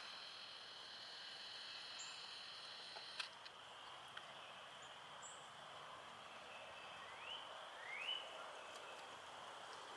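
Faint birdsong in woodland: a few short high chirps and two rising whistled notes near the end, over a steady high background of distant calls.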